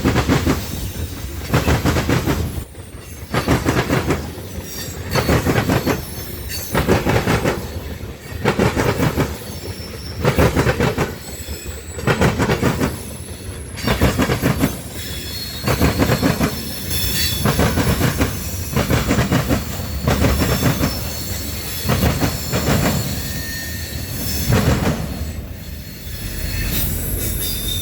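A train rolling past, its wheels clattering over the rail joints in a steady repeating beat about every second and a half to two seconds as each car goes by. Thin high-pitched wheel squeal comes through at times.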